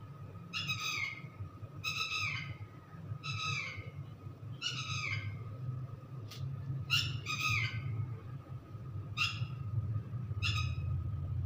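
A bird calling again and again, short calls that fall in pitch, about one every second and sometimes in pairs, over a low steady hum.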